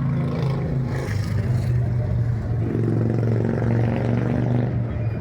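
Motor vehicle engine running with a steady low hum; a fuller, higher note joins about halfway through.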